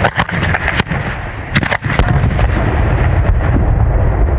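Consumer fireworks going off: a rapid string of loud bangs and cracks over the first two seconds, then a steady rushing roar with scattered pops.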